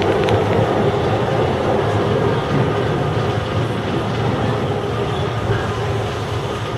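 Chiba New Town Railway 9000 series electric train running, with the steady rumble of wheels on rail heard from inside the car at the front.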